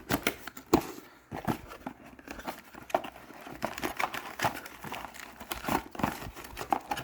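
Packaging crinkling and rustling as parts are handled and unwrapped, with scattered irregular crackles and light clicks.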